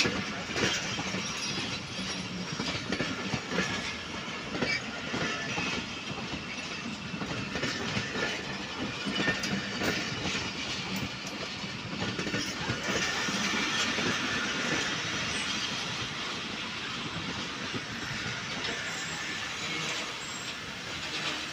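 Passenger coaches of an arriving express train rolling past, the wheels clicking irregularly over rail joints over a steady running rumble. A stretch of stronger hiss comes about two-thirds of the way through.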